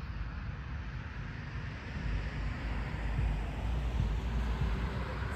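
Railway equipment running with a steady low rumble, getting a little louder about two seconds in.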